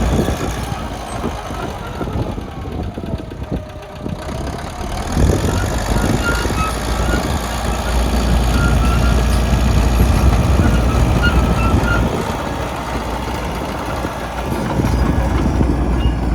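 1978 Caterpillar D4E crawler dozer's four-cylinder diesel engine running. It eases off about two seconds in and comes back up to a steady, louder run from about five seconds on.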